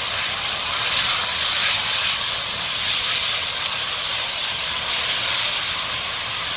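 Compressed natural gas venting from the burning CNG garbage truck's fuel system: a steady, loud hiss.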